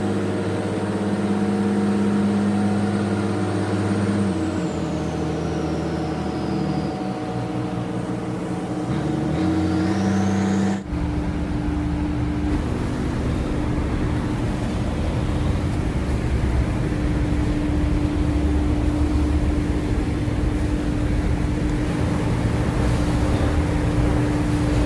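Boat engine running, its steady hum shifting pitch in a few steps; about eleven seconds in the sound switches abruptly to a rougher engine rumble with one steady tone held over it.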